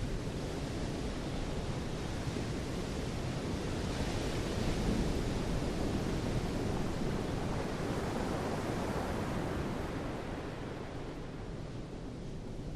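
Sea waves washing in with wind: a steady rushing surf that swells a little about four seconds in and eases slightly near the end.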